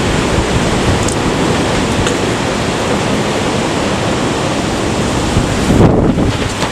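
Typhoon-strength wind blowing hard and buffeting the microphone with a loud low rumble, surging in a stronger gust about six seconds in.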